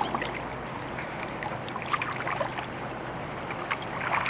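Water splashing and trickling around a kayak as it is paddled, with small clusters of splashes about two seconds in and near the end, over a steady low hum.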